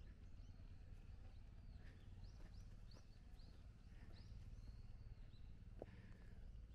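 Quiet outdoor background with a faint low rumble. About two seconds in comes a quick run of short, high bird chirps lasting a couple of seconds.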